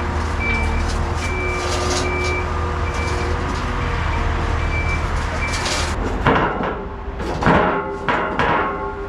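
Diesel engine running with a reversing alarm beeping about one and a half times a second, typical of a skid steer backing up. About six seconds in the beeps and engine drop away and a run of loud, ringing bangs follows.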